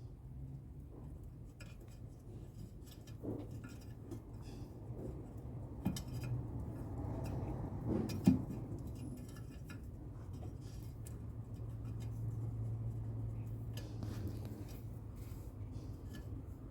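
Light metallic clicks and clinks of hand work on the washing machine's motor wiring and parts, with one sharper click about eight seconds in, over a low steady hum.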